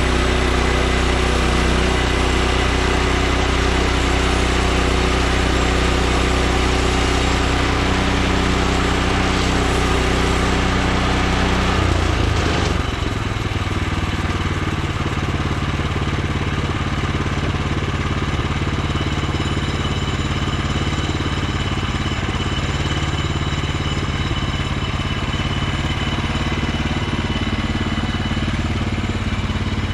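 Woodland Mills HM126 portable bandsaw mill running: its gas engine drives the band blade steadily. About twelve seconds in, the engine note shifts and the sound drops a little, then runs on steadily.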